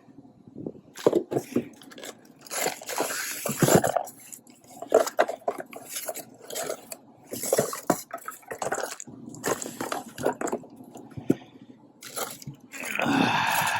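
Irregular clicks, clanks and scraping of metal parts being handled while a replacement furnace blower motor is fitted with its belly-band mounting strap.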